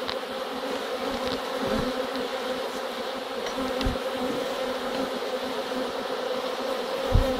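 A honeybee colony buzzing steadily around an opened hive, a dense hum of many bees' wingbeats. A few short low thumps break in, the strongest near the end.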